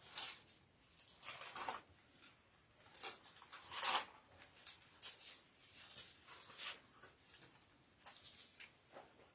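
Faint paper rustling in short, irregular bursts: the thin pages of a Bible being turned.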